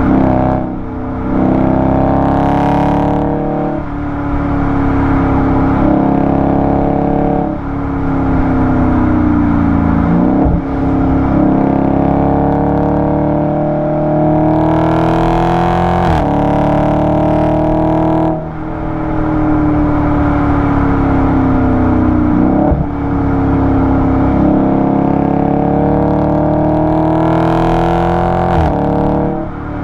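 Dodge Charger 392's 6.4-litre Hemi V8 exhaust, heard close up at the tailpipe, pulling hard through the gears. The note climbs steadily in pitch, drops suddenly at each shift, and climbs again, several times over.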